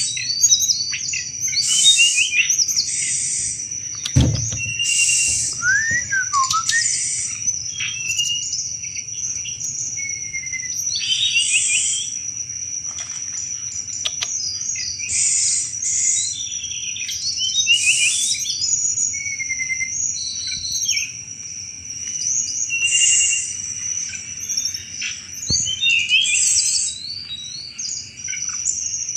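A tledekan gunung singing its chattering 'cetrekan' song: short bursts of quick twittering notes and brief sweeps, repeated every second or two. A steady high-pitched buzz runs underneath.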